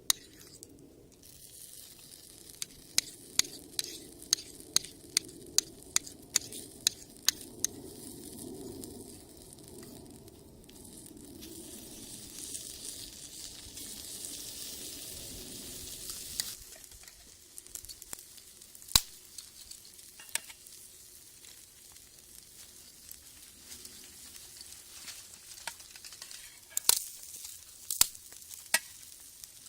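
Food sizzling in a skillet over a wood fire. About a dozen sharp taps, roughly two a second, come in the first several seconds. The sizzling hiss swells for a few seconds in the middle, and a few scattered sharp clicks follow near the end.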